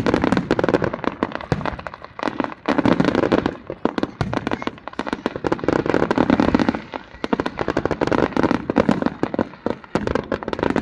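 Fireworks display: a dense, continuous run of rapid crackling and popping bursts, swelling into heavier volleys about every three seconds.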